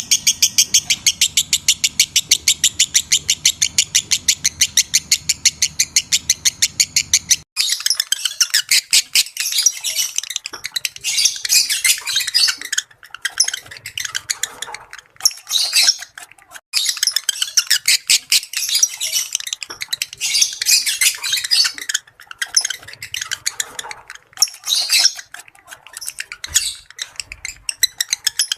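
Lovebirds chirping and chattering: a fast, even string of high chirps, several a second, then about seven seconds in an abrupt switch to irregular, busier chattering broken by short pauses.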